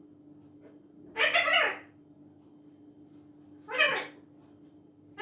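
Pet parrot giving two pitched calls: one lasting under a second about a second in, and a shorter one about two and a half seconds later. A faint steady hum runs underneath.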